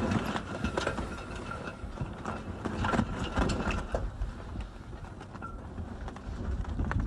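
Irregular mechanical clicking and rattling over a low, steady wind rumble.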